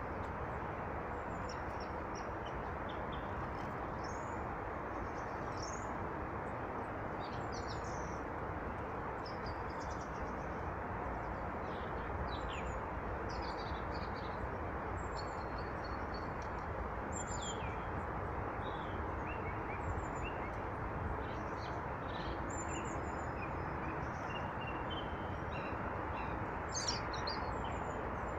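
Small birds at feeders giving many short, high chirps and calls, scattered irregularly, over a steady rushing background noise.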